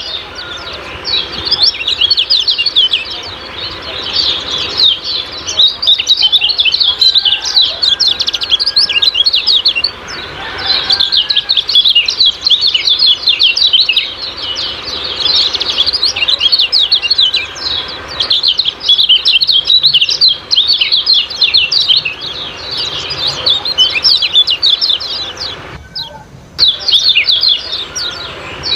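Kecial kuning songbird singing its 'ciak-ciak' song: fast, high-pitched runs of short chirps that break off briefly a few times.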